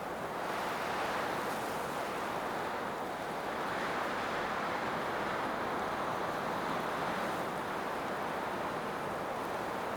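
Blizzard wind howling, a steady rushing noise that swells and eases slowly.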